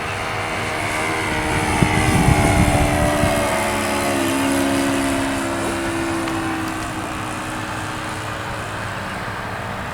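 Single-cylinder Saito .82 four-stroke glow engine of an RC model airplane running in flight as the plane passes by. It grows louder about two to three seconds in, then fades with its pitch dropping as it flies away.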